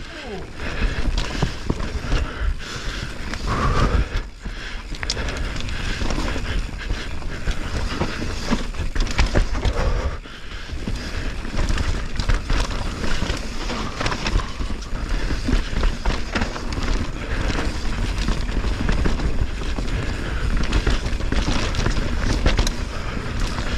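Canyon mountain bike descending a rough dirt trail, heard from a mounted action camera: wind buffeting the microphone over tyre noise on the dirt, with frequent knocks and rattles of the bike and chain over bumps and roots. The noise eases briefly twice.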